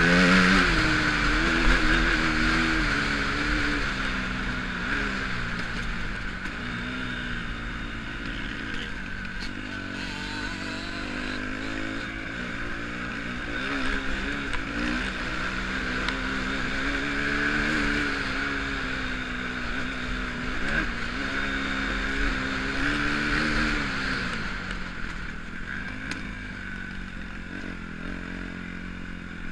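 Motocross bike engine revving up and down repeatedly, its pitch rising and falling every few seconds as the rider works the throttle, growing a little fainter toward the end.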